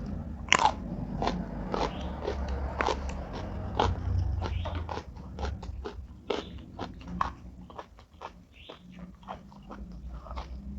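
Close-up chewing and crunching of crisp food: a person biting and chewing with many sharp, irregular crunches, louder in the first half and softer toward the end.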